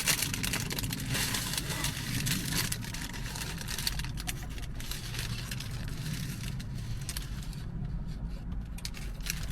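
Paper wrapper rustling and crinkling as a footlong pretzel is handled and unwrapped, over the steady low hum of a car interior with the engine running.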